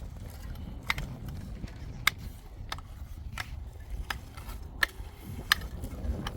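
A series of sharp knocks or taps from construction hand work, about one every two-thirds of a second, over a low steady rumble.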